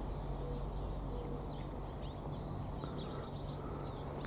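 Small birds chirping with scattered short, high calls and thin whistles over a steady low hum of outdoor background.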